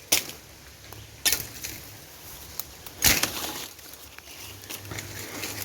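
Three sharp crunching rustles, one to two seconds apart, with a few fainter ticks between them, of someone moving through dry, spiky bush vegetation.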